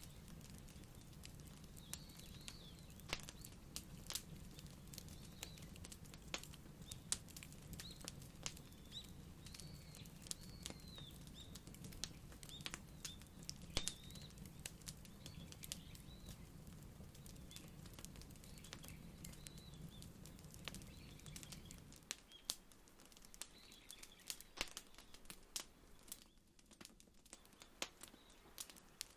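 Wood fire crackling: scattered sharp pops and snaps over a low steady rumble, which drops away about three-quarters of the way through.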